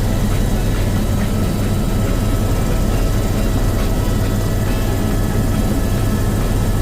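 Helicopter running, a steady loud drone with a few faint, steady higher tones over it.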